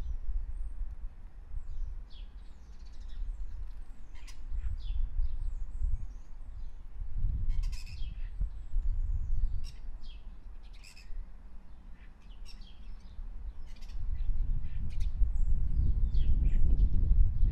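Birds chirping and calling in many short, high notes, over a low rumble that grows louder near the end.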